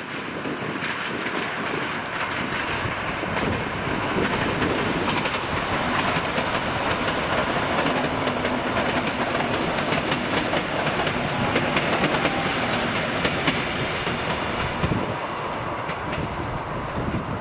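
Electric multiple-unit passenger train running past, its wheels clicking over rail joints in a steady run of clickety-clack, with a faint steady tone underneath.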